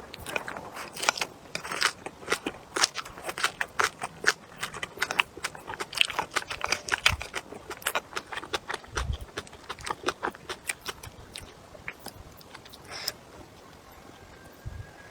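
Close-up chewing and biting on spicy stir-fried pork bone and vegetables: many sharp, irregular crunches and clicks, thinning out over the last few seconds.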